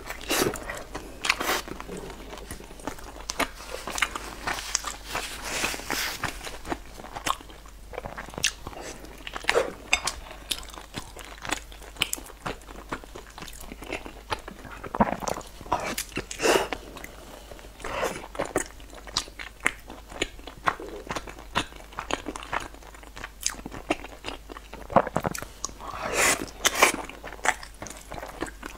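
A person biting and chewing sauce-coated food close to a clip-on microphone, with many irregular sharp mouth clicks.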